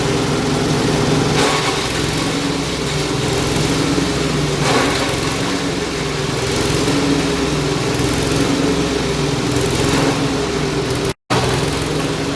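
Engine-driven leaf and small-branch chopper running steadily with a droning engine note, broken by a few brief louder rushes of noise. The sound cuts out for an instant near the end.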